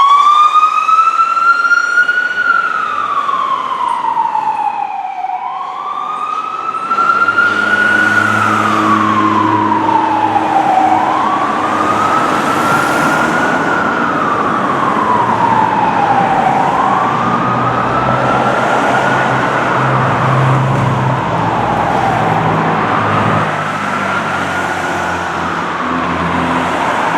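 Whelen electronic siren on a wail, the sign of a fire unit responding code 3 with lights and siren. It is one slow rising and falling tone, about five seconds per cycle, winding up at the start. From about seven seconds in, a low vehicle engine rumble runs underneath.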